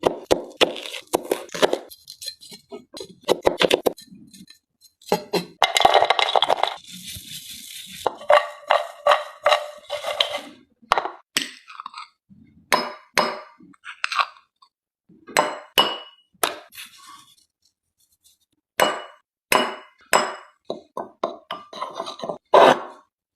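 Kitchen utensils clinking and knocking against dishes and a pan, a long run of separate sharp strikes, several with a brief metallic ring.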